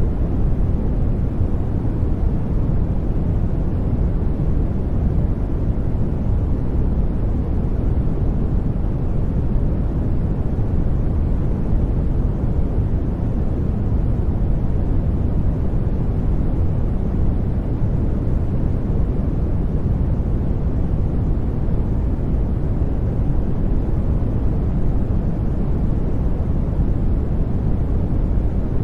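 Steady, unchanging sleep noise, added as a white-noise track, with its weight in the low end so it sounds deep and rumbling rather than hissy.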